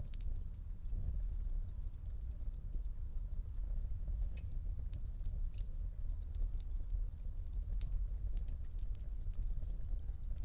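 Wood fire crackling in a fireplace: a steady low rumble of flames under frequent small, irregular crackles and pops.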